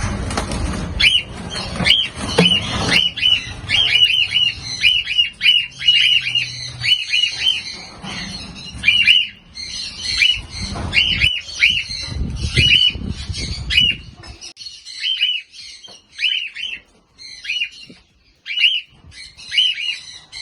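Cockatiels squawking, a long run of short, shrill calls, many in quick succession at first and more spaced out later. Low rustling and rumbling noise runs beneath them and stops about two-thirds of the way through.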